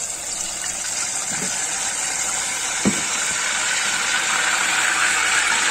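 Ginger-garlic paste frying in hot oil in an aluminium pot: a steady sizzle, growing gradually louder. A single knock about three seconds in.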